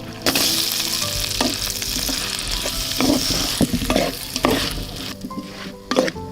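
Food frying in hot oil: a loud sizzle starts suddenly about a quarter second in and slowly dies down, while a utensil stirs and scrapes the pan in several separate strokes.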